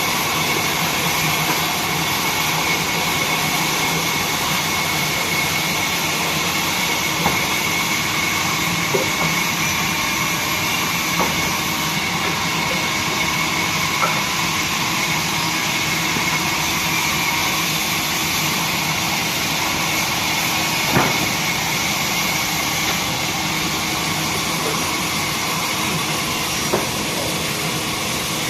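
Horizontal wood band saw machine running steadily with a high whine, and a few short clicks or knocks every few seconds.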